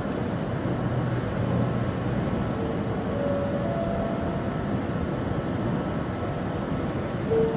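Steady rumble of a train on the station tracks, with a few short faint tones around the middle.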